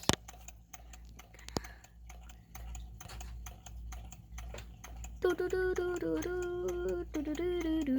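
Small hot-water Stirling engine running, its piston and flywheel linkage making a steady, rapid ticking. From about five seconds in, a louder pitched tone that holds and steps in pitch, like humming, sounds over it.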